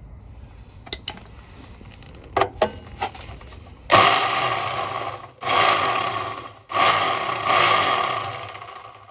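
Electric drill with a cobalt bit run in three bursts against hardened steel, each starting loud and tailing off, after a few sharp knocks. The bit is struggling to cut through the hardened steel.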